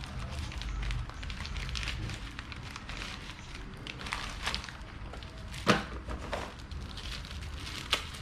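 Irregular clicks and light knocks of small parts and tools being handled while an electric fan is worked on, with a sharper knock a little past the middle and another near the end. A low electrical hum dies down within the first second or so.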